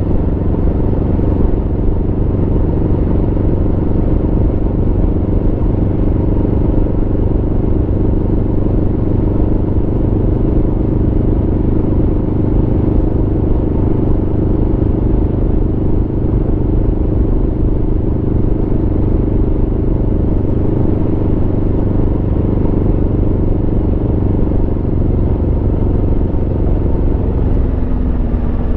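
Aprilia Tuono V4's V4 engine running at steady revs while the motorcycle is ridden. Near the end the engine note drops as the revs fall.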